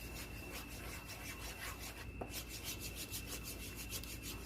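A utensil scraping the bottom of a pan while stirring a thick cream sauce, in quick, even strokes about five a second.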